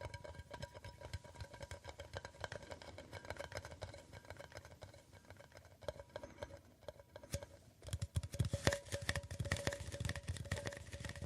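Rapid ASMR tapping on a hard object that rings with a faint steady tone under the taps; the tapping gets louder and heavier about eight seconds in.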